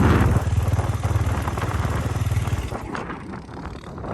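Single-cylinder four-stroke 450 motocross bike engine running with an even low pulsing note, which fades away about two-thirds of the way through.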